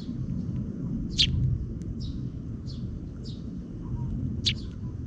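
Sparrows chirping: short, high chirps every half second to second, two of them louder than the rest. A steady low rumble runs underneath.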